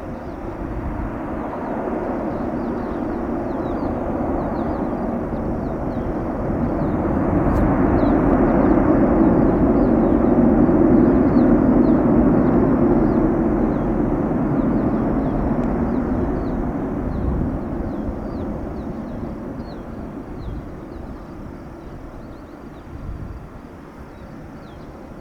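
Airbus A319 jet engines on approach, a steady rushing drone that grows louder to a peak about ten seconds in, then slowly fades as the airliner passes and moves away. Wind rumbles on the microphone underneath.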